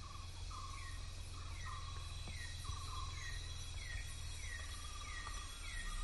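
Outdoor wildlife ambience: an animal, likely a bird, repeats short calls about once or twice a second, a lower buzzy note alternating with a higher falling note, over a steady high insect hiss.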